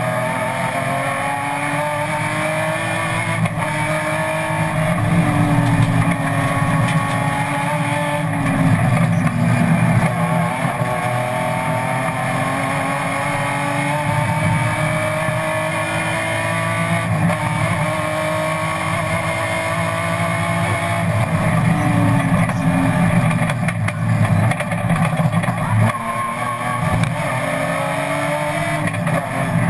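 BMW M3 race car engine heard from inside the stripped cockpit under full racing load. Its pitch climbs and then drops back several times as it is driven up through the gears and down again into corners, over steady wind and tyre noise.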